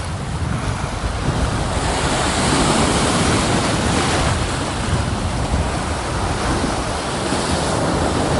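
Sea waves surging and breaking against a rocky shore, with strong wind buffeting the microphone. The surge swells from about two seconds in.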